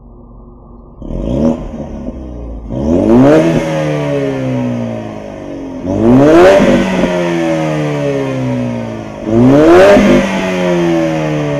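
A 2015–2017 Mustang's 2.3 L EcoBoost turbocharged four-cylinder being revved through a Ford Racing Touring cat-back exhaust with Borla-made mufflers and a stainless X-pipe. There is a short blip about a second in, then three quick revs, each rising sharply and falling back slowly toward idle.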